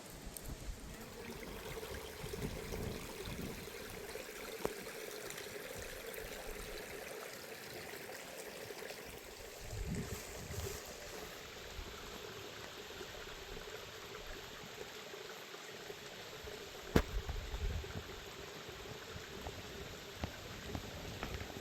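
Water trickling steadily, with a few low thumps and one sharp click about two-thirds of the way through.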